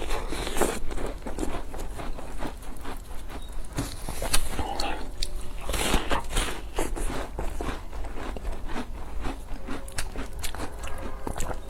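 Close-miked eating sounds: a person biting and chewing food, with a dense run of short clicks and crunches.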